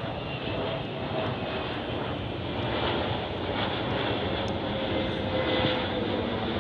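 Airplane flying past, a steady engine rush with faint tones slowly falling in pitch, growing a little louder.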